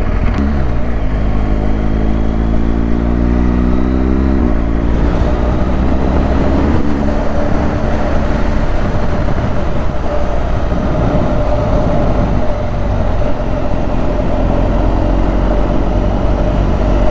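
Motorcycle engine pulling hard and rising in pitch for about four seconds, changing up a gear, rising again briefly, then cruising steadily. Heavy wind rush on the helmet-mounted microphone throughout.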